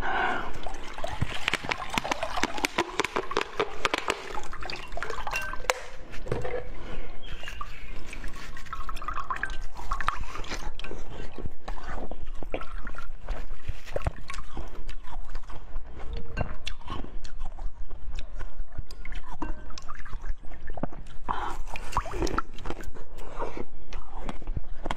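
Close-miked eating sounds: wet, squishy chewing and biting of a soft blue bottle-shaped jelly food, with many small irregular mouth clicks and smacks.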